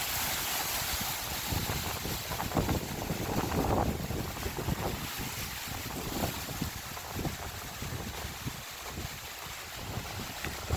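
Gusty wind buffeting the microphone over the steady wash of ocean surf breaking on the beach.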